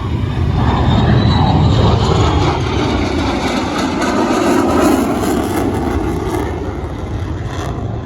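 F-35A Lightning II's Pratt & Whitney F135 jet engine, loud as the fighter flies past in a display. It swells over the first couple of seconds, stays loud, then fades away toward the end.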